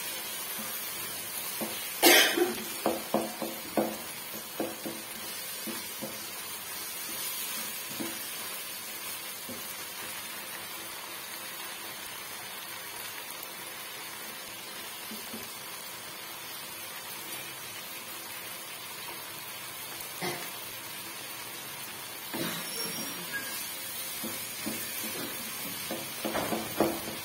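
Vegetables sizzling steadily in oil in a nonstick wok, with a wooden spatula scraping and knocking against the pan during two spells of stirring, the first about two seconds in, starting with a sharp knock, and the second near the end.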